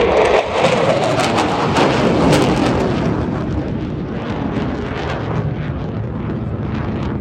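Eurofighter Typhoon jet passing by, its pitch falling as it goes past, with a crackling edge. It is loudest in the first couple of seconds, then eases to a steady, lower jet noise.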